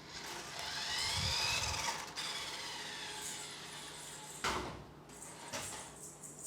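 Battery remote-control toy car's small electric motor and plastic gears whirring, the whine rising and falling in pitch as the car speeds up and slows. A sharp knock comes about four and a half seconds in.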